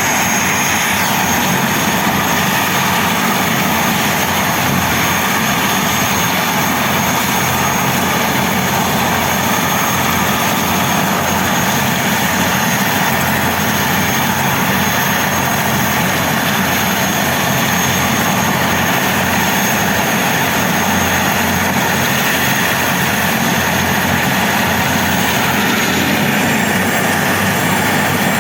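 Airbus H125 (AS350 B3) helicopter's turboshaft engine and rotor running steadily and loudly, a high turbine whine over dense rotor and exhaust noise.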